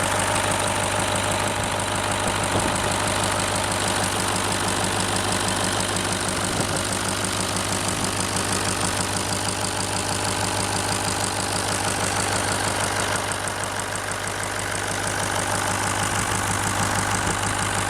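Scania 142 V8 diesel engine in a T-150K tractor idling steadily with a diesel knock, still cold a few minutes after a first start at −7 °C. It eases off slightly about thirteen seconds in, then comes back up.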